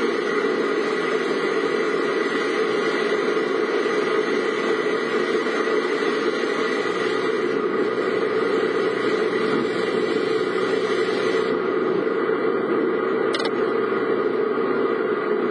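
Steady driving noise inside a car's cabin: the engine running and the tyres on the road, with no sharp changes. About three quarters of the way through there is a single brief click.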